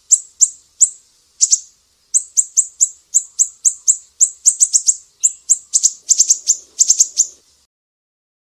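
A Sumatran siri-siri bird giving a quick series of short, sharp, high chirps, about three a second, that speed up and crowd together before breaking off near the end.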